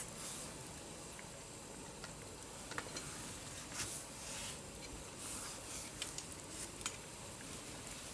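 Wood campfire crackling: scattered sharp pops and snaps over a soft hiss, with a few brief hissing flare-ups.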